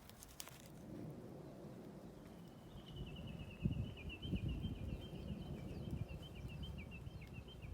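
A bird calling: a long, rapid series of short high chirps at one pitch, starting about three seconds in, over low rumbling outdoor noise.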